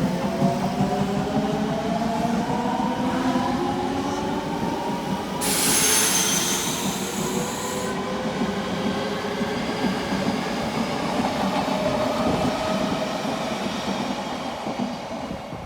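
Odakyu electric commuter train pulling away, its traction motors whining in several tones that climb in pitch as it gathers speed, under the rumble of the wheels on the rails. About five seconds in, a high hissing screech lasts about two seconds, and the sound fades near the end.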